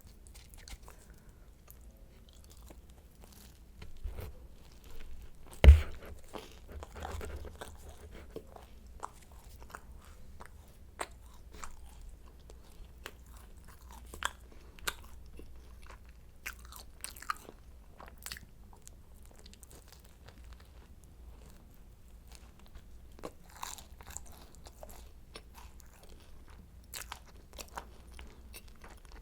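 Flaky croissant being bitten and chewed close to the microphone: scattered crisp crackles of the pastry with softer chewing between. One loud thump about six seconds in.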